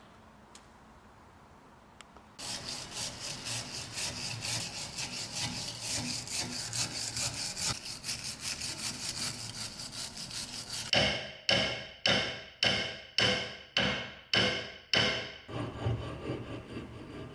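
Hand saw cutting wood. Quick short strokes come in steady succession for several seconds, then about ten slower, louder full strokes.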